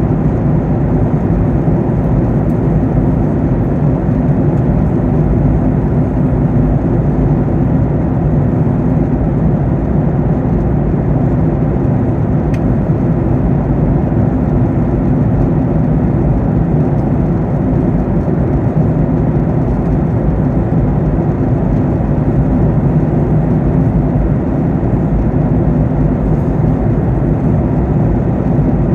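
Steady cabin noise inside a Boeing 737-800 in flight: an even drone of engines and airflow with a steady low hum.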